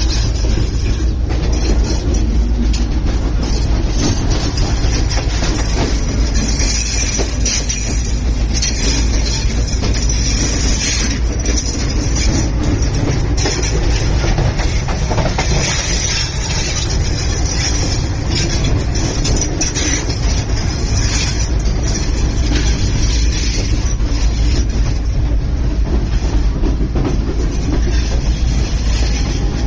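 Passenger train running along the track, heard from on board: a steady low rumble of wheels on rails with irregular clacks over the rail joints.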